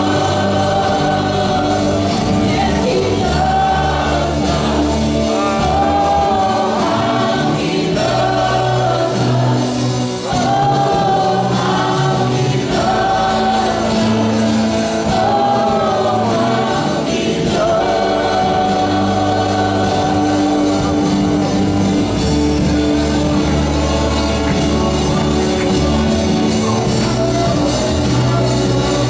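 Church worship team singing a gospel-style worship song together over steady instrumental backing.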